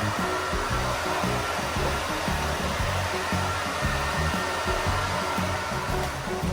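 Hair dryer blowing steadily on a large dog's coat, a constant rushing hiss with a faint whine. Background music with a bass line plays under it.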